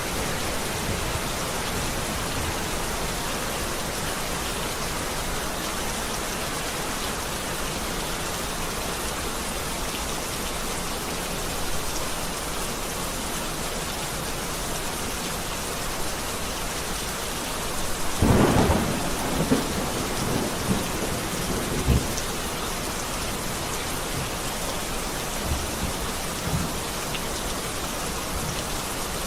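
Heavy rain falling steadily. About two-thirds of the way in comes a sharp, crackling thunderclap with several rumbling after-strikes, and a few fainter ones follow.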